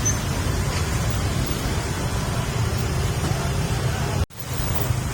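Steady low rumbling noise, of the kind wind and sea make on a microphone out on the water, with a sudden brief dropout about four seconds in, like a cut in the recording.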